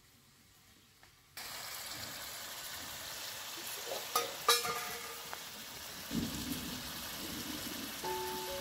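Chicken curry sizzling in an iron kadai over a wood fire: a steady hiss that starts abruptly about a second in. A few clinks of steel bowls come about halfway through.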